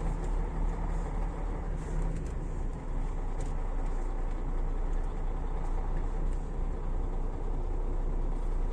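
Steady drone of a long-haul truck's engine with road noise, heard inside the cab while driving.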